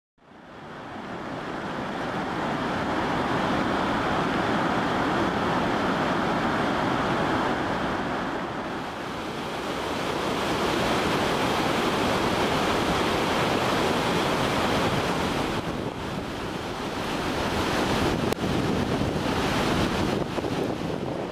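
Floodwater of the swollen Kamo River rushing past in a violent muddy torrent: a dense, steady rushing noise that fades in at the start. Wind buffets the microphone in gusts near the end.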